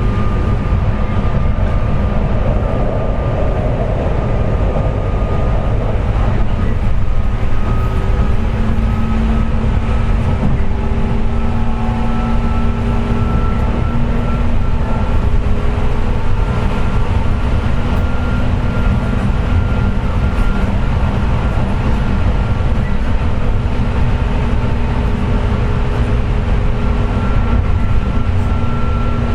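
Running sound inside a JR West 201-series chopper-controlled EMU motor car at speed: a steady rumble of wheels on rail under a steady high whine from the traction motors. The whine is the 'jet sound' of motor bearings damaged by electrical pitting.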